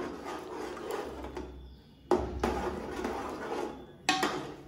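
Chicken frying in a metal pot, sizzling up sharply three times as spoonfuls of green chilli paste go in and are stirred. Each burst fades over a second or two.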